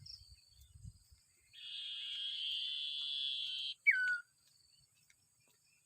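A small bird calling: a buzzing trill for about two seconds, then a single sharp whistle that slides downward.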